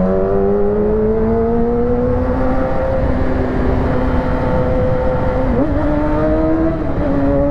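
Yamaha R6's inline-four engine pulling under way, its note climbing slowly for the first few seconds and then holding steady, with a couple of shifts in pitch near the end. Wind and road noise rush underneath.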